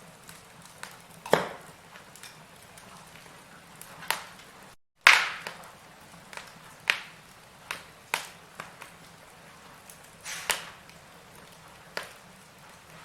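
Burning firewood crackling, with sharp pops every second or so over a faint steady hiss. The sound drops out briefly just before the loudest pop, about five seconds in.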